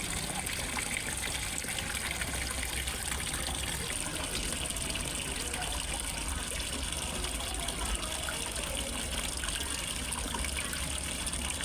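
Water pouring and splashing steadily into a fish pond, as from a small waterfall, with an even rushing trickle that does not change.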